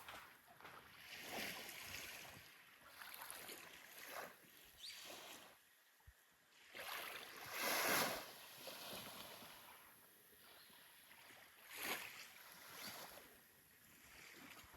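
Small waves washing onto a sandy beach, a soft hiss that swells and fades every few seconds. The biggest wash comes about eight seconds in, and another near twelve seconds.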